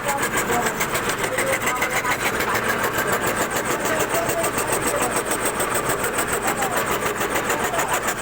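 CNC wood carving router running and cutting wood, a steady machine noise with rapid, even pulsing.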